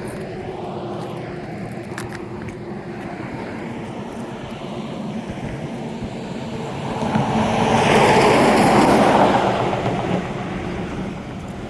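Steady rushing of flowing river water, swelling louder for a few seconds about seven seconds in.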